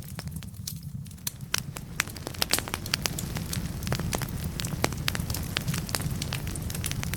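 Wood fire burning in a fireplace: a steady low rumble with frequent sharp crackles and pops of burning logs, fewer in the first second or so.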